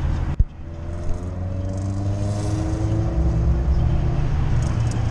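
Car engine running on the road, its pitch rising slowly over a couple of seconds. There is a sharp click and a brief dip about half a second in.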